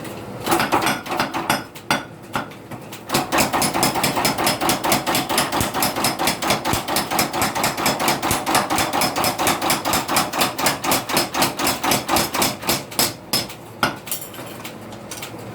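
Blacksmith's hammer striking metal: a few separate blows, then a long even run of rapid blows at about five a second, ending a little before the close.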